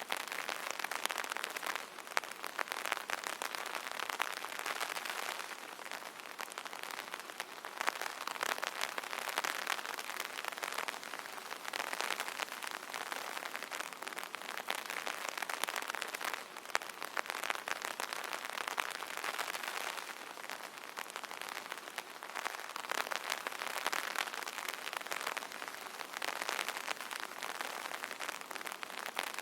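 Steady rain pattering on an umbrella canopy, a dense stream of fine drop ticks that swells and eases every few seconds.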